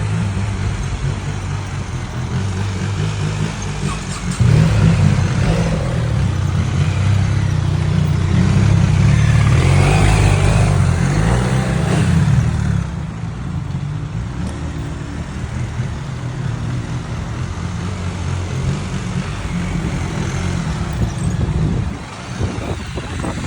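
A motorcycle riding in road traffic, a steady vehicle noise with a heavy low rumble. The rumble swells about four seconds in, eases back about thirteen seconds in, and drops near the end.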